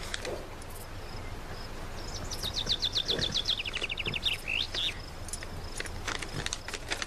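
A bird sings a fast descending trill of about a dozen notes a couple of seconds in, ending in two rising whistles. Under it run a faint steady high insect-like tone and scattered soft clicks and rustles of handled paper.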